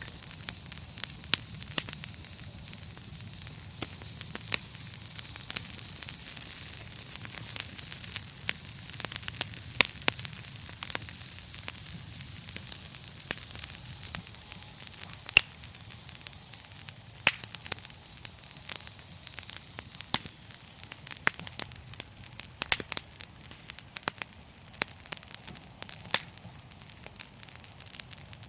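Wood fire crackling in a fireplace: a steady soft hiss with many sharp, irregular pops and snaps.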